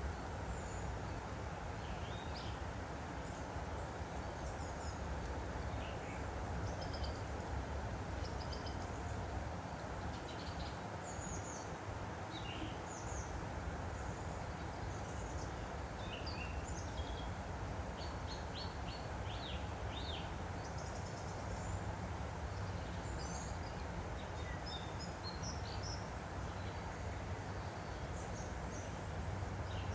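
Steady rush of a woodland stream, with small birds chirping over it, several quick trills among the calls.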